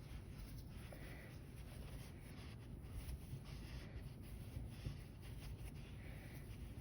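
Faint rustling and rubbing of polyester fiberfill stuffing being pushed by hand into a crocheted amigurumi body, over a low steady room hum.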